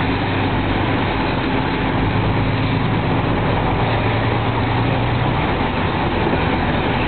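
A heavy engine running steadily: a constant low rumble and hum under an even rushing noise, with no bangs or changes.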